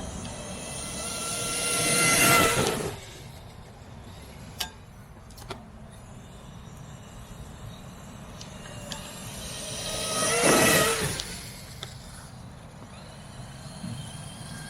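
Traxxas X-Maxx 8S brushless electric RC monster truck speeding past twice: its motor whine and tyre noise rise as it closes in and fall away after each pass, about two seconds in and again about ten seconds in. A couple of short clicks come between the passes.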